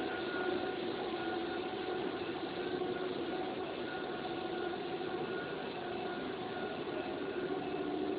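PVC/WPC profile extrusion line running: a steady machine drone with a few held humming tones over it.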